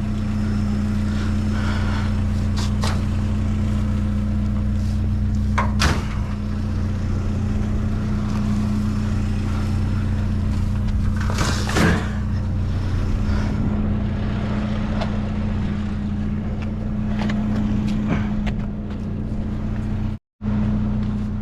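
A vehicle engine running steadily with a low, even hum, and a few sharp knocks over it.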